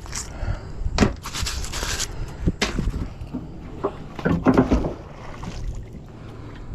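Scattered clinks and knocks as a magnet loaded with nails is handled in a kayak, with a short hissy rush about a second in and a cluster of clicks near the end.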